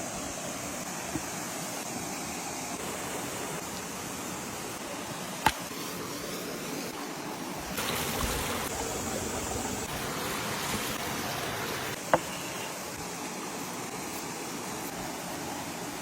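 Steady rush of flowing stream water, with two sharp clicks about six seconds apart.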